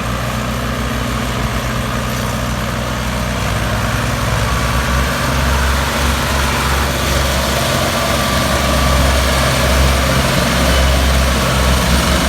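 Diesel engines of Ford 3610 and Ford 4610 tractors running steadily, getting louder from about five seconds in.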